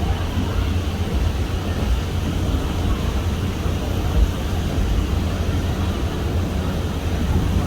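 Steady low rumble and rush of wind buffeting the microphone, flickering irregularly.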